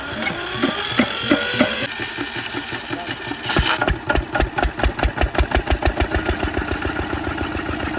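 Electric self-starter whining as it cranks an old Eicher engine on two batteries wired for 12 volts. About three and a half seconds in, the engine catches and runs with a steady, even knock of about five beats a second.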